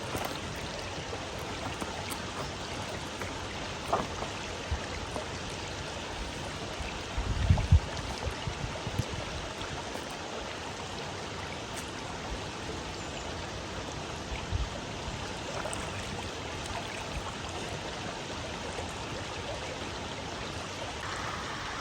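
Steady rush of flowing water, with a few low thumps about seven seconds in.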